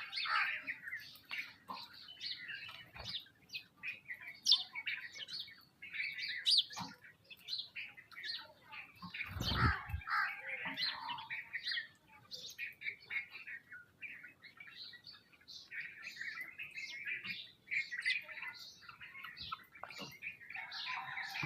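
Sparrows chirping busily, many short overlapping chirps with no break, with a dull thump about nine and a half seconds in.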